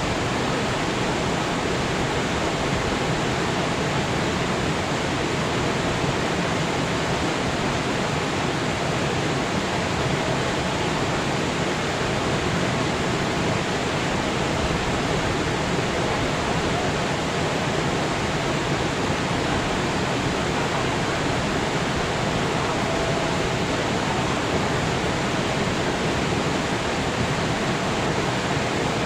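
Mountain river rushing over rocks: a steady, unbroken wash of water noise.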